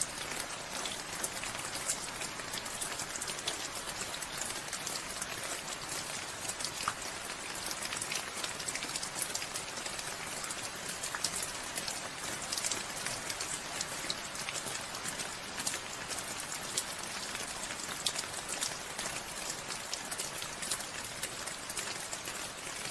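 Steady rainfall, a continuous hiss of drops with many small, sharp drop ticks on surfaces.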